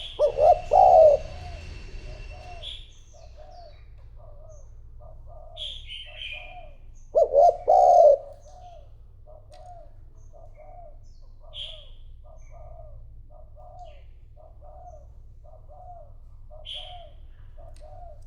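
Spotted dove cooing: a steady run of soft, short coos about two a second, broken twice by a loud three-note coo, about a second in and again around the middle. A few brief high chirps from another small bird sound now and then.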